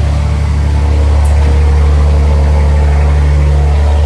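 Steady low drone of a car's engine running, heard from inside the car.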